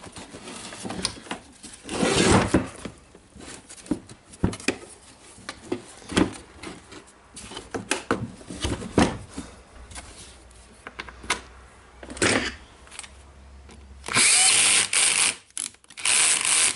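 Power drill-driver running in two short bursts near the end, driving screws to tighten the radio's rim, after many scattered knocks and clicks of plastic parts being handled and fitted.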